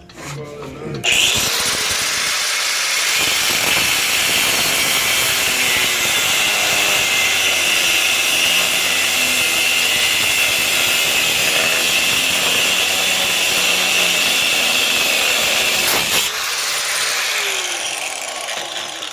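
DeWalt angle grinder cutting through a steel coil spring, a steady high grinding that starts about a second in. Around 16 s it stops abruptly with a sharp crack, and the wheel winds down with a falling whine.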